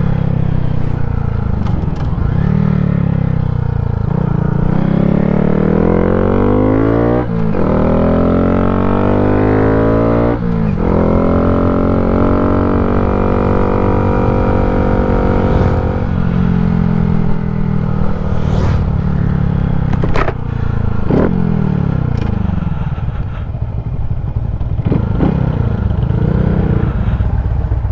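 2023 Honda Grom's 125 cc single-cylinder engine with an aftermarket exhaust pulling through the gears: the pitch climbs and drops back at two upshifts, holds steady at a cruise, then falls away as the bike slows.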